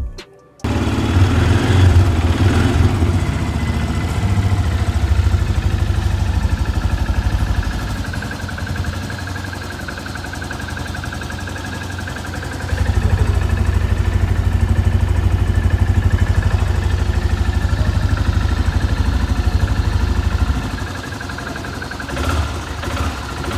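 Benelli Imperiale 400's single-cylinder engine running through its exhaust with a steady low beat. It grows louder in two long stretches and eases off between them.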